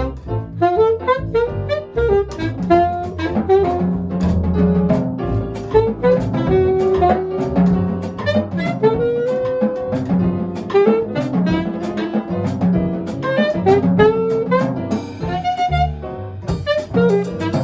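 Jazz quartet playing a tune in steady time: a horn carries the melody over a walking bass line and a drum kit with regular cymbal strokes.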